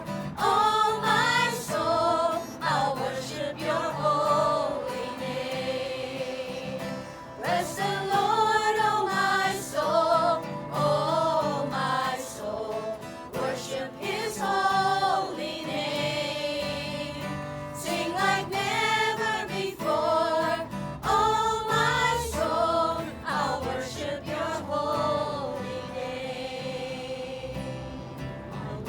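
A group singing a gospel hymn together with acoustic guitar accompaniment, unamplified.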